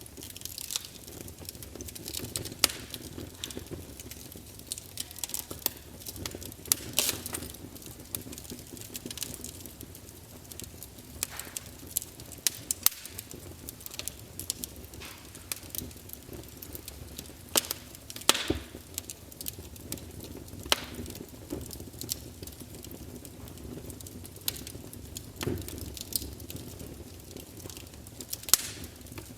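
Wood campfire burning: a steady low rumble of flames with irregular sharp crackles and pops from the burning wood.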